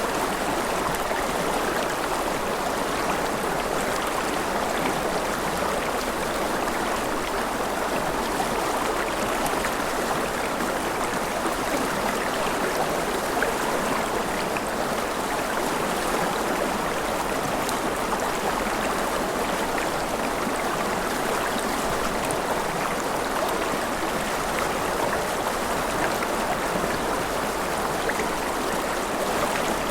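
Mountain river rushing over rapids, a steady, even rush of water.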